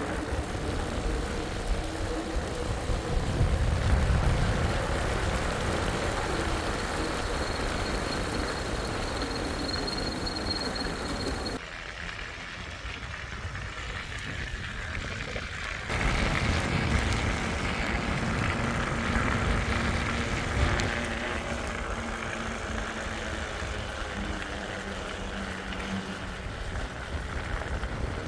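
Wind buffeting the microphone with steady road noise while cycling on a windy, snowy road. The noise drops away for about four seconds near the middle.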